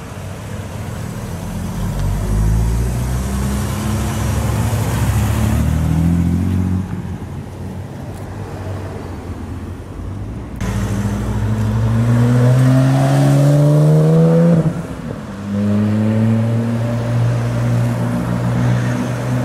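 Go-kart engines running and revving, their pitch climbing in long sweeps several times as a kart accelerates, with a sudden break about halfway through.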